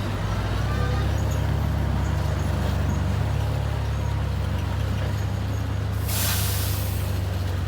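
Bulldozer's diesel engine running steadily under load with a deep drone, and a short burst of hiss about six seconds in.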